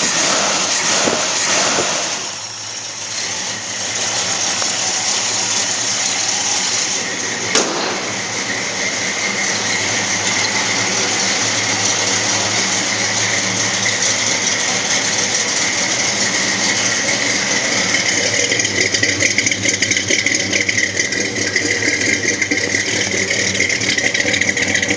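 A 1966 Ford GTA clone's 302 crate small-block V8 idling steadily. There is one sharp click about seven and a half seconds in, and the running grows more uneven over the last several seconds.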